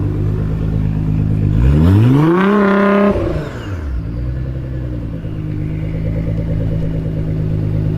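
Straight-piped Nissan R35 GT-R's twin-turbo V6 idling, then revved once: about a second and a half in the engine note climbs quickly, holds at high revs for under a second, and drops back to a steady idle.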